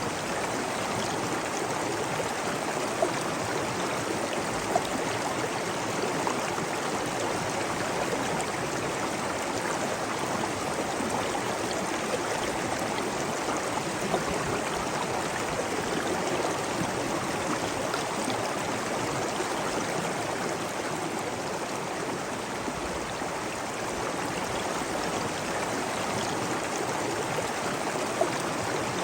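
Steady rush of running water, with a few brief splashes standing out now and then.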